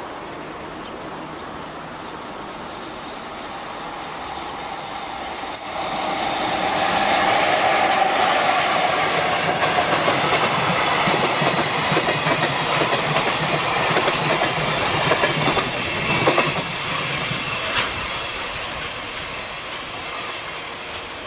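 Container freight train hauled by an EF66 electric locomotive running through a station without stopping. The wagon wheels clatter over the rail joints. The sound swells about five seconds in, stays loud for some ten seconds, then fades as the train draws away.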